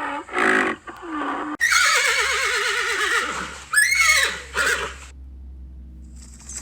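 Horse whinnying: a long, quavering neigh about a second and a half in, followed by a shorter call. It is preceded by a few short animal calls.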